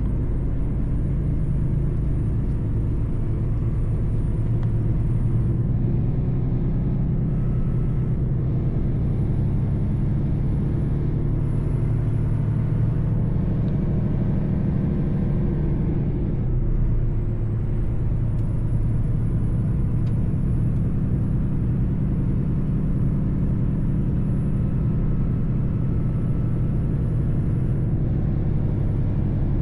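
Mercedes-Benz truck running steadily at road speed: a continuous low engine drone with road rumble. About halfway through the engine note eases briefly and a faint high whine dips in pitch, then both pick up again.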